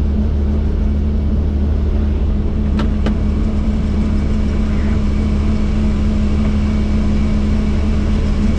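Helicopter running with a steady, loud low drone and a constant hum above it. Two faint clicks come about three seconds in.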